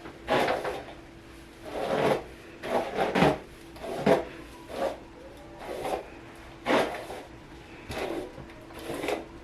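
A run of short scraping, rubbing sounds close to the microphone, irregular and about one a second, over a faint steady hum.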